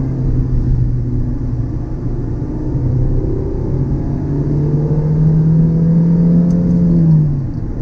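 Mazda MX-5 (NC) 2.0-litre DOHC four-cylinder engine pulling in second gear: a steady note for the first few seconds, then the revs climb steadily before falling away sharply near the end.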